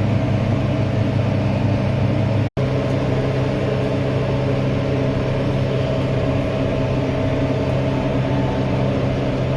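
Tractor engine running steadily at constant speed while mowing hay, with one split-second dropout about two and a half seconds in.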